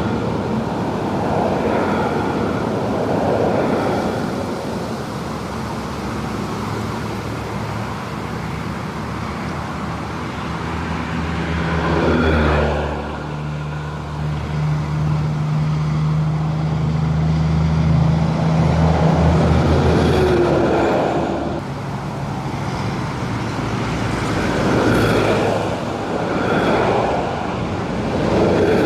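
Road traffic on a highway bridge: trucks and cars passing one after another, each swelling and fading. A heavy truck's engine drones steadily for several seconds near the middle.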